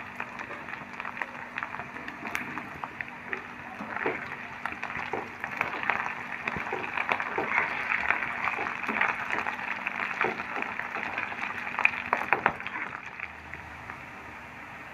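Potato pieces and freshly added curry leaves sizzling and crackling in hot oil in a pan, with many sharp pops. The sizzle grows louder through the middle and eases off near the end.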